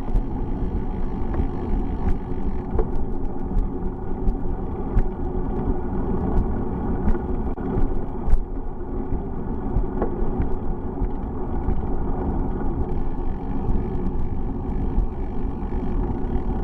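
Steady rumble of a bicycle ride: wind buffeting the microphone and road noise from the bike, with scattered small clicks and rattles.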